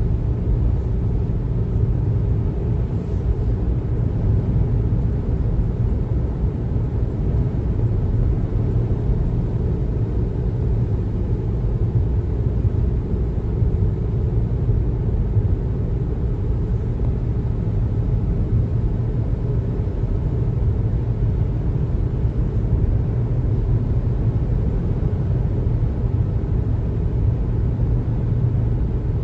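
A car driving at steady speed: an even, low rumble of road and engine noise that stays unchanged throughout.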